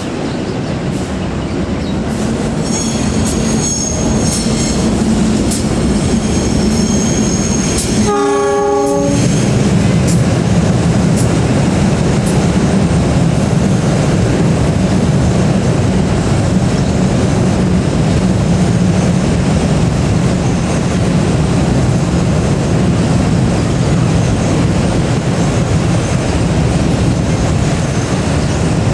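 Train passing close by, a steady rolling rumble with clickety-clack of the wagons over the rail joints. High squealing from the wheels comes in the first several seconds, and a horn sounds once about eight seconds in, lasting about a second.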